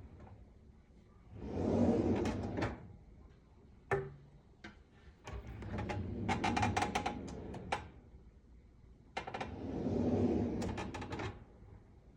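Hettich drawer runners rolling and creaking as the drawer is slid three times, each run a rumble full of small clicks and squeaks, with a single knock between the first two. The creaking is the wear of hardware three years in use.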